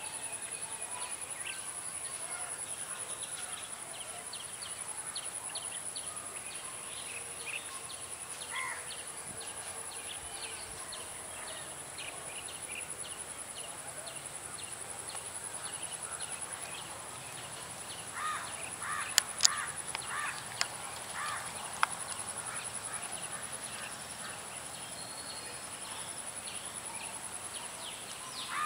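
Outdoor nature ambience: a steady high insect drone under many short, repeated bird chirps, with a burst of louder bird calls and a few sharp clicks about two-thirds of the way in.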